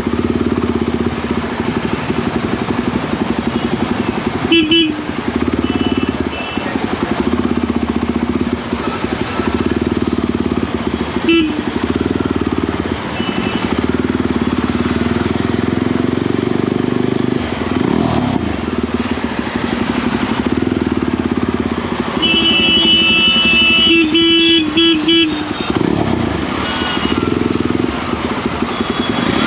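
Motorcycle engine running steadily under way, its exhaust loud. Vehicle horns honk briefly a few times, with a longer run of repeated honks about two-thirds of the way through.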